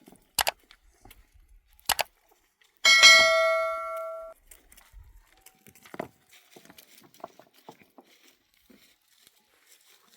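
A metal object struck once, ringing with a bright metallic tone that dies away for about a second and a half before being cut short. Two sharp double knocks come before it, and faint scattered clicks and taps follow.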